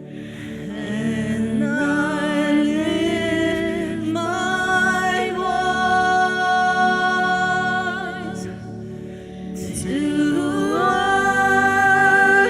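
Worship team singing a slow worship song with band accompaniment: long, held notes in two sung phrases, with a short lull about nine seconds in before the voices rise again.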